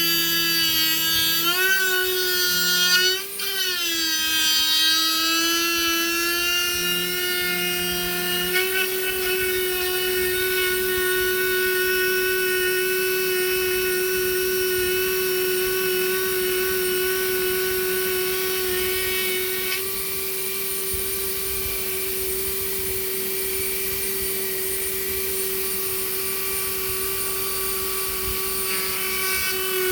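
Small high-speed power tool motor, like a rotary tool or drill, running with a high whine. Its pitch dips a few times in the first few seconds as the bit bears on the wood, then holds steady.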